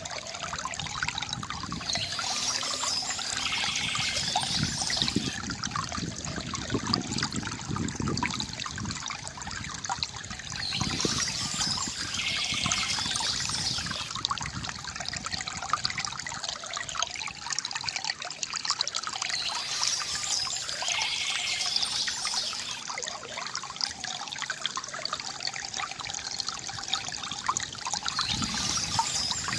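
Water trickling and gurgling steadily from a bamboo fountain, with low gurgling surges now and then. High chirping of birds comes back in a burst of about three seconds roughly every eight and a half seconds, four times.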